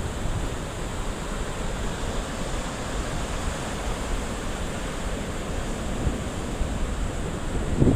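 Ocean surf washing onto a beach, a steady hiss, with wind rumbling on the microphone.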